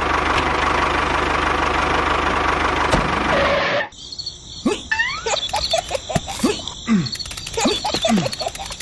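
A small motor runs steadily with a low hum for about four seconds, then cuts off suddenly. Crickets trilling with chirping bird calls follow.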